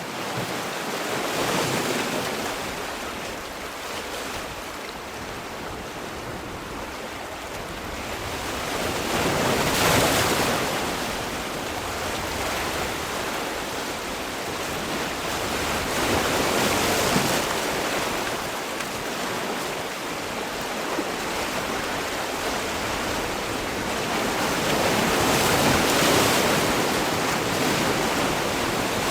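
Sea waves breaking and washing ashore, the surf swelling louder every several seconds, with peaks about 10, 17 and 26 seconds in.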